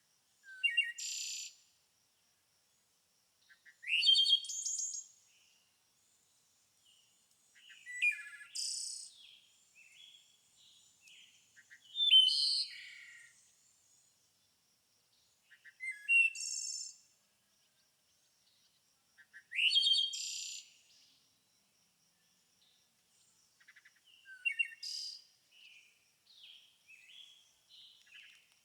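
A songbird singing short, high song phrases about every four seconds, seven in all, with softer chirps near the end.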